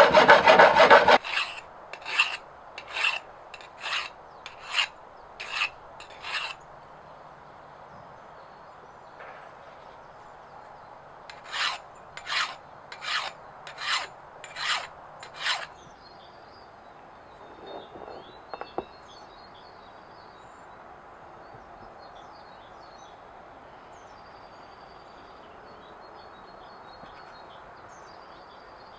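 Hand file rasping on steel: a loud stretch of filing that stops about a second in, then two runs of about seven separate scraping strokes at a little over one a second, with a pause between them.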